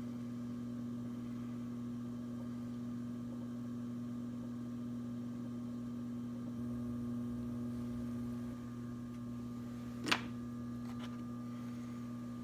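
Electric potter's wheel motor running with a steady hum, with a single sharp click about ten seconds in.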